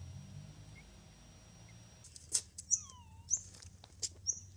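Small birds chirping in short, high notes, repeating about every half second from roughly halfway through, with one lower falling squeak among them.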